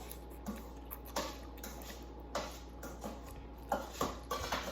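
Fork clinking and scraping against a container of instant noodles while eating: a few separate short clinks, then a quicker cluster near the end.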